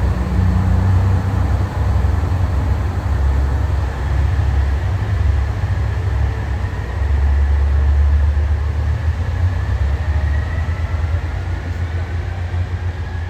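A train running, with a heavy low rumble throughout and a faint whine that rises in pitch over the last few seconds.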